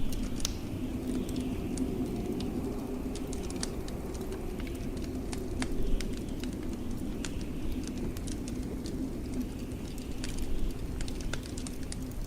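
Wood fire crackling, with sharp irregular pops over a steady low moan of blizzard wind.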